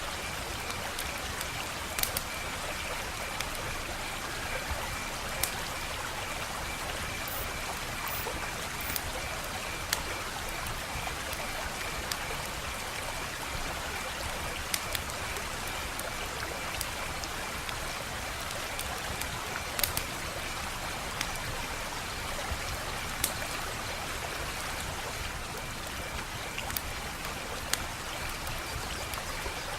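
Wood fire crackling: a steady hiss with about a dozen sharp pops scattered irregularly through it, a faint high-pitched pulsing trill running underneath.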